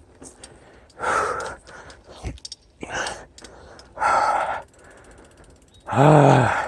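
A person breathing hard from exertion on an uphill climb: loud, heavy breaths every second or so, ending about six seconds in with a voiced, falling groan on an exhale.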